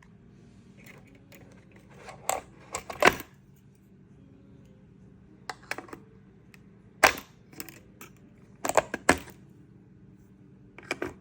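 Sharp clicks and clacks of small hard objects being handled, coming in short clusters of two or three every couple of seconds.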